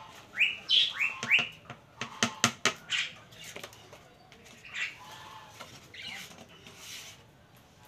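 A bird chirps several times in short rising calls during the first second and a half. Then comes a quick run of sharp clicks and scattered rustles as small fish are tipped from a plastic bowl onto a plastic sheet.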